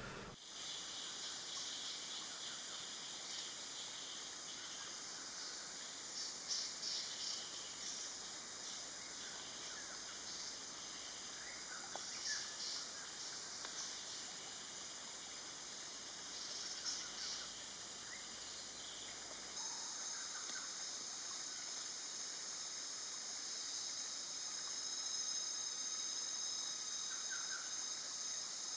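Steady high-pitched insect chorus, with a few short bird chirps about six, twelve and seventeen seconds in.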